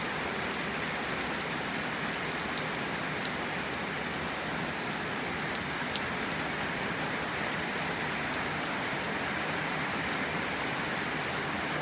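Steady rain falling, with a continuous hiss and many scattered individual drops ticking on nearby surfaces.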